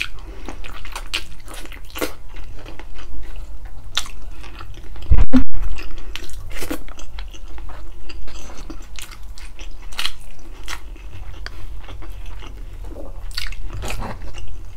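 Close-miked chewing and biting of spicy balbacua (stewed pork feet), a run of quick mouth clicks and smacks. A single loud, low thump about five seconds in.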